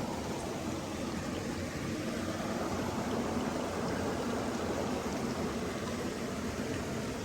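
Flowing water running steadily, like a stream, as an even, continuous rush.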